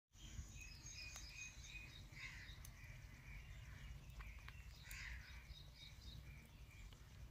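Faint bird calls: repeated short chirps, with two harsher calls about two seconds in and again about five seconds in, over a low steady rumble.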